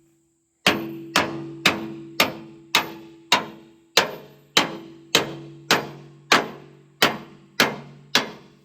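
A hammer pounding on a steel part, about fourteen even blows a bit under two a second, each strike ringing and fading before the next.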